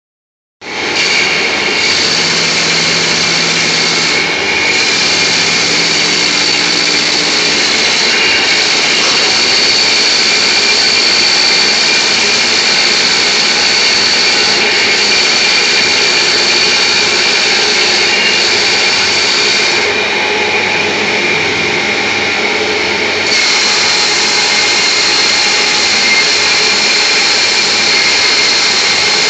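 Woodturning lathe running, cutting beech-wood rollers: a steady machine noise with a high whine, the upper part easing for a few seconds about two-thirds of the way through.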